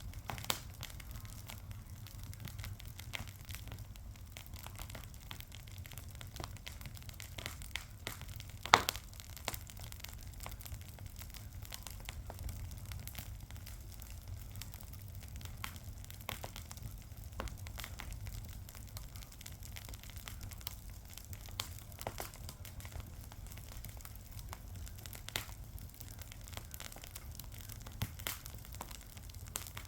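A fire crackling, with many small irregular pops and snaps and one sharp, loud pop about nine seconds in, over a low steady rumble.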